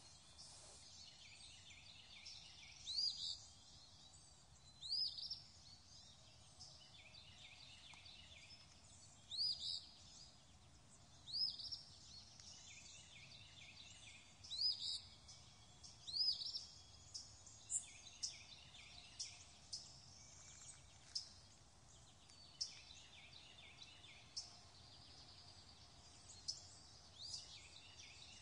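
Faint birdsong over a soft steady background hiss. Short rising chirps come every couple of seconds in the first half, and thinner scattered chirps follow later.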